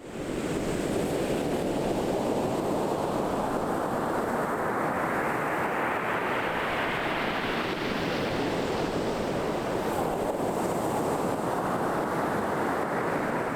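A continuous rushing noise like surf, swelling over the first half, easing off, then building again near the end.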